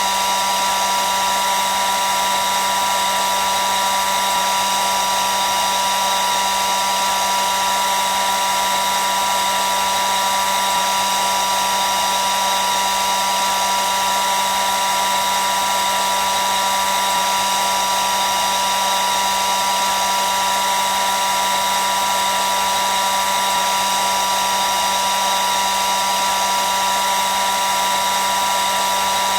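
Hair dryer running continuously at a constant speed: a steady whirring rush of air with a high motor whine, with no change in pitch or level.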